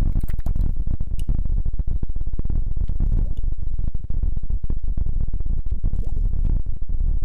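Close-up rubbing on an ASMR microphone, with a heavy, rumbling, crackly sound made of many small rapid crackles.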